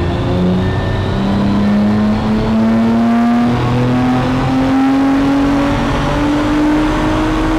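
2019 Audi RS5's twin-turbo 2.9-litre V6, fitted with downpipes and a custom intake, under full load on a chassis dynamometer during a stock power run; the engine note climbs slowly and steadily in pitch as the revs rise.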